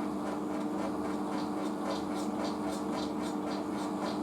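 Asko washing machine spinning steadily at 800 rpm in its second spin burst, with a steady whirring hum. A light ticking comes in partway through, about four times a second.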